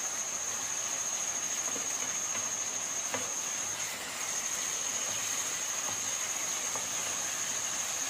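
Chicken pieces sizzling as they fry in a nonstick pan, stirred with a spatula with a few soft scrapes, over a steady high-pitched whine.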